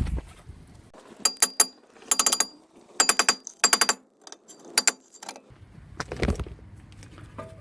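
A hammer strikes a stuck rear brake rotor on a 2015 Toyota Camry to knock it off the hub. The blows come in quick clusters of two to four, and each one rings like metal. A duller thump comes about six seconds in.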